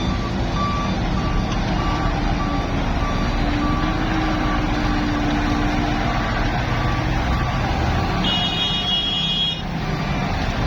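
Diesel dump truck engine running, with its reversing alarm beeping at a regular pace. About eight seconds in, a higher-pitched tone sounds for just over a second.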